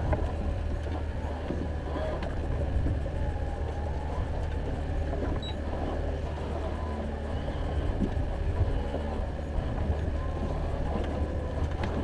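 Fishing boat's motor running steadily at trolling speed, a low even hum.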